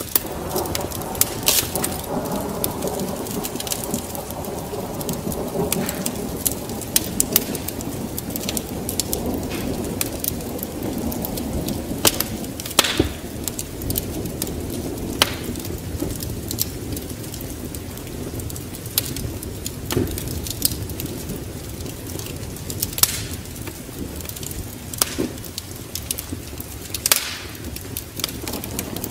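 Wood fire crackling with sharp pops scattered throughout, over a steady bed of rain and a low rumble of thunder that is strongest in the first third and then fades.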